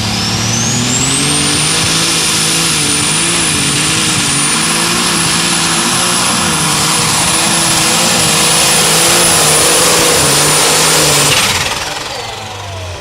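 Light super stock pulling tractor engine running flat out under load, with a high turbocharger whine that climbs in about the first second and then holds steady over the wavering engine note. About eleven seconds in, the engine and whine drop off sharply as power is cut at the end of the pass.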